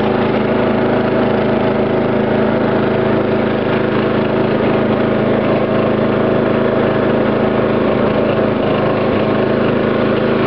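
12 hp Briggs & Stratton engine of a Dynamark riding lawn tractor running at a steady speed, with no change in pitch.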